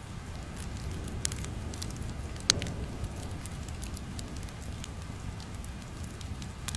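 Crackling fire ambience: a steady low rumble with scattered sharp pops and snaps, the loudest about two and a half seconds in.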